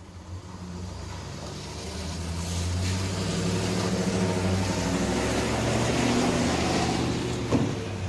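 A motor vehicle's engine going by, with a low hum and hiss that swell over several seconds and then ease off. One sharp click near the end.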